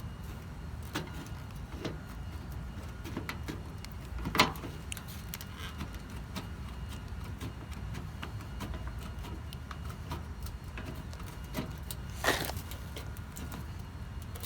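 Irregular clicks and a few louder sharp snaps over a low steady rumble, from body panels of a car being cut by hand along a marked line.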